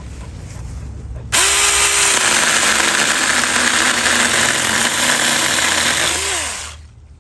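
Saker mini cordless electric chainsaw switched on about a second in and run for about five seconds, cutting a fig branch. The motor pitch drops as the chain bites and rises briefly before the saw winds down and stops.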